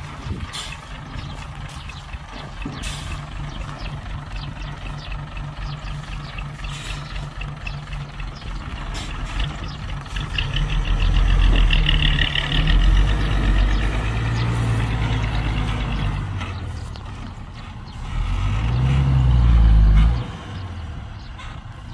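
Heavy diesel engine of earthmoving machinery idling steadily, then revving up under load for several seconds about halfway through. Near the end it revs again, climbing in pitch, and drops off suddenly.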